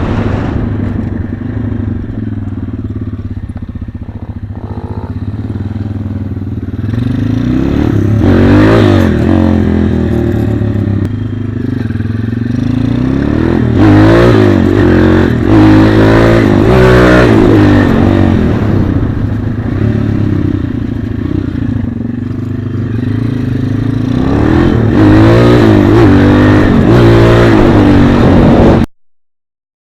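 Pit bike engine running and being revved, the revs rising and falling in repeated swells, then stopping abruptly near the end.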